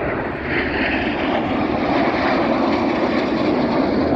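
Jet roar of the Red Arrows' BAE Hawk T1 jets flying a display manoeuvre, growing louder over the first second or so and then holding loud and steady.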